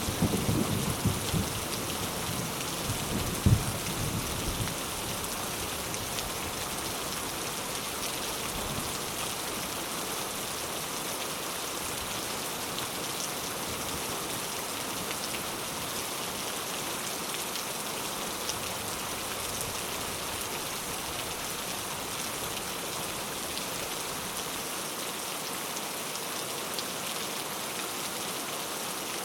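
Steady heavy rain falling and pattering on surfaces. A low rumble of thunder, with one sharp peak about three and a half seconds in, dies away within the first five seconds.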